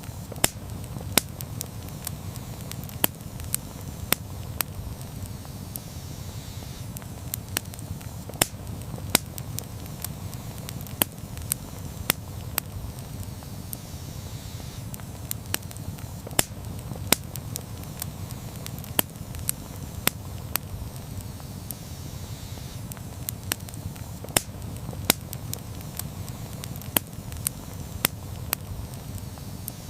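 Campfire burning, with frequent irregular sharp crackles and pops of burning wood over a steady low rumble of the flames.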